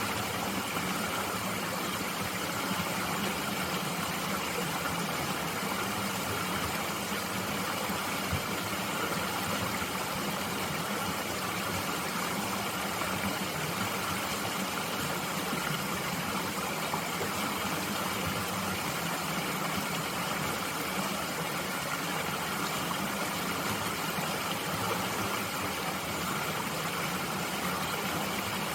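A mountain stream flowing, a steady even rushing of water with no breaks.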